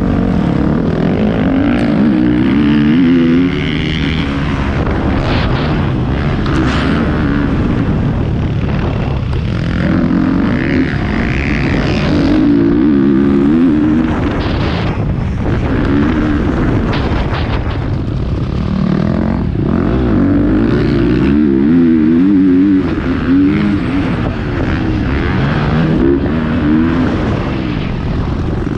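Motocross dirt bike engine under hard riding, its revs rising and falling again and again as the rider accelerates and backs off around the track.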